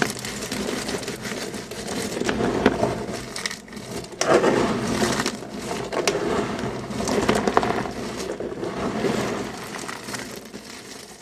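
Dry, crumbly material being crushed and crunched: a dense run of crackling with many sharp snaps, easing briefly a little before the midpoint and fading near the end.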